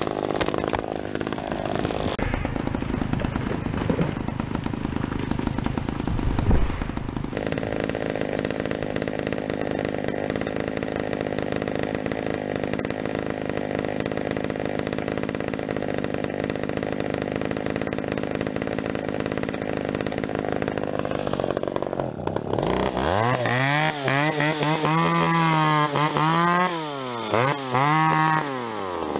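Chainsaw engine running at a steady low speed. About twenty-three seconds in it revs up hard, and its pitch swings down and back up several times.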